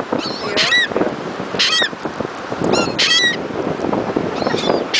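A flock of seagulls calling: short, high, squawking calls, several of them overlapping, repeated every second or so.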